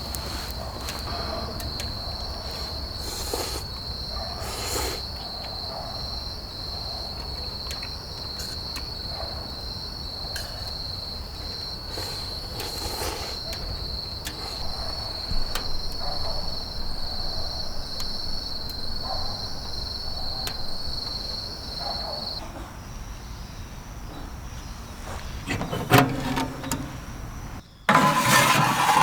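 Crickets trilling steadily on one high note, which stops abruptly about three-quarters of the way through, with scattered small clicks over a low rumble. Near the end come a few loud clattering knocks, like metal being handled.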